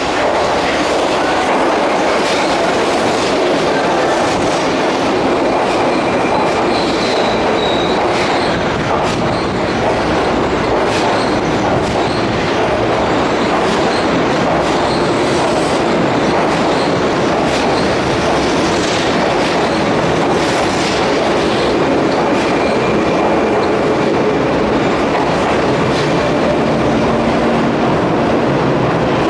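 Keihan Main Line electric train running along the platform, a steady rumble with wheels clacking over rail joints and a brief thin wheel squeal about seven seconds in.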